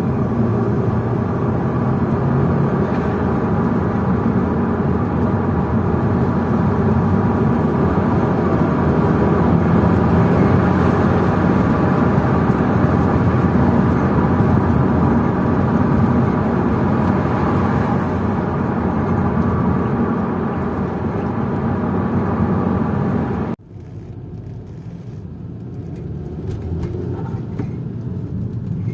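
Saab 9-5 2.0t turbocharged four-cylinder, fitted with an open air filter, running steadily under way with its road noise. About 23 seconds in, the sound drops suddenly to a much quieter level and then slowly builds again.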